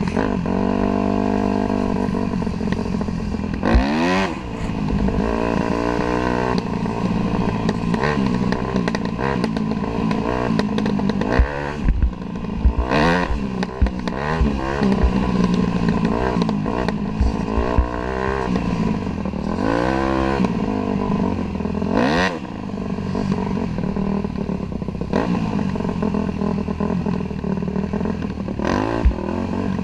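Dirt bike engine heard close up while riding, the pitch rising and falling again and again as the throttle opens and closes. A few sharp knocks are heard along the way.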